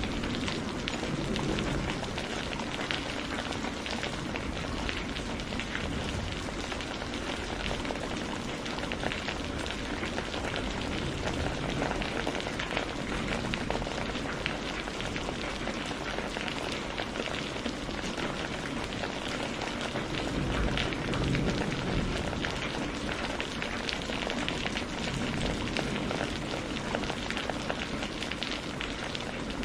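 Steady rain falling, a dense even hiss of drops, with a brief low swell about two-thirds of the way through.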